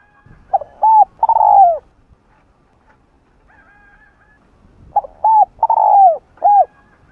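Spotted dove cooing: two phrases about four seconds apart, the first of three coos and the second of four, each with a longer coo that falls in pitch.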